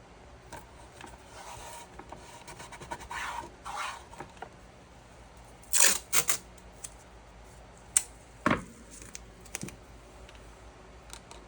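Handling noises: rustling and scraping, then a few sharp snaps and clicks about six seconds in and again around eight seconds.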